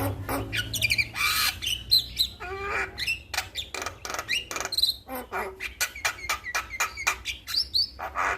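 Male Javan myna (jalak kebo) singing: a fast unbroken run of harsh clicks, chattering squawks and short whistled notes.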